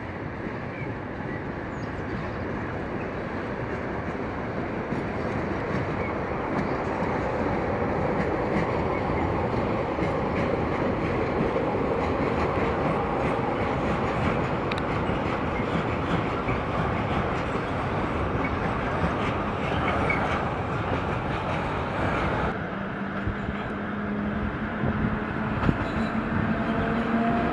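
A train running on the rails, a steady rumble with the clatter of wheels, growing louder through the first half. About three-quarters of the way in the sound changes abruptly, and near the end steady tones rise over the rumble.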